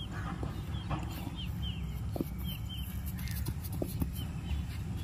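A bird chirping repeatedly in short, falling notes over a steady low rumble, with a few faint clicks.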